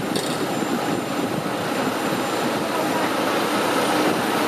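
Airplane engine sound effect: a steady, even rushing engine noise.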